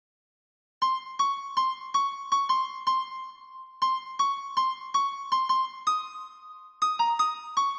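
Karaoke guide melody: the song's vocal line played one note at a time on a synthesized electric-piano-like keyboard tone, in short detached notes about two to three a second. It starts after nearly a second of silence and includes one longer held note about halfway through.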